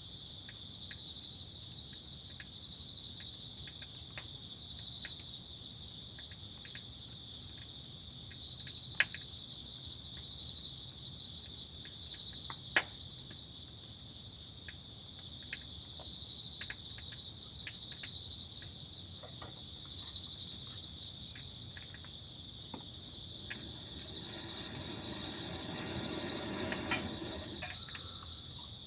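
Crickets trilling in repeated pulsed bursts of about a second each, high-pitched and steady, with scattered sharp ticks. A duller rushing noise rises over them near the end.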